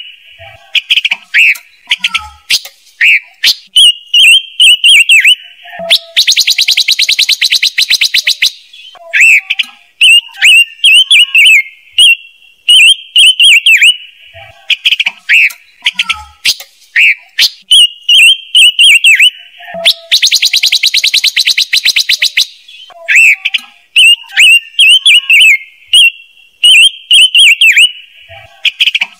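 Silver-eared mesia (chim ngũ sắc) calling in short, quick chirping phrases, broken twice by a fast dry chattering rattle about two and a half seconds long. The sequence repeats, a looped lure-call recording made for a bird-trap speaker.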